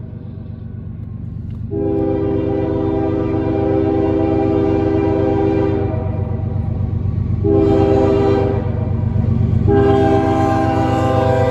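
Freight locomotive's air horn sounding three blasts: a long one starting about two seconds in, a shorter one, then another long one held to the end, over the steady rumble of the approaching train.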